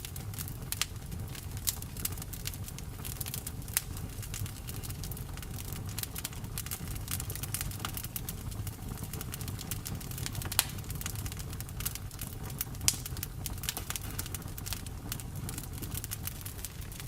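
Campfire burning, with frequent irregular crackles and pops over a low steady rumble of the flames.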